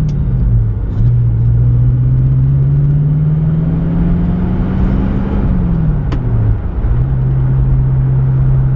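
Pontiac Firebird engine pulling under load: its note climbs steadily for a few seconds, falls away about two-thirds of the way through, then holds steady. The car is running high revs, which the owner puts down to having no fourth gear, and it sounds to him as if the choke is not coming off.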